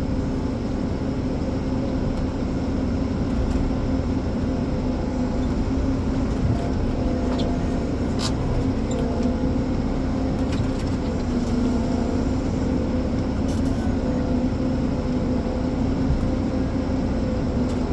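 Ponsse Elephant forest machine's diesel engine running steadily, with a few faint clicks and knocks from the machine.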